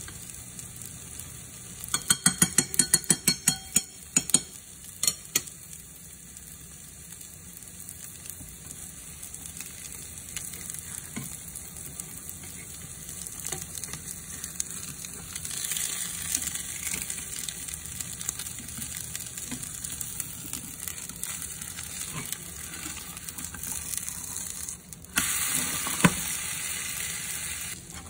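Potato and egg omelette sizzling in a frying pan, with a quick run of sharp clicks from utensils tapping the pan about two seconds in. The sizzle grows louder after about fifteen seconds. Near the end it drops out for a moment and comes back louder as the omelette is flipped, with one sharp clack of the spatula on the pan.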